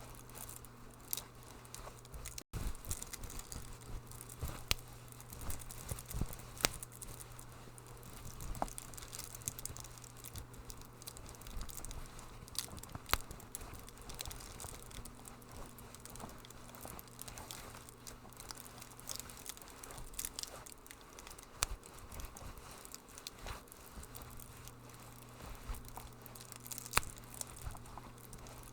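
Wood fire crackling in a fireplace: irregular sharp pops and snaps over a soft hiss, with a steady low hum underneath.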